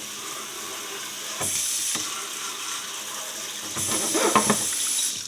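Jet of water spraying onto an old steel horseshoe, a steady hissing splatter that grows louder for a moment about a second and a half in and again from near four seconds, with a few knocks. The spray cuts off suddenly at the end.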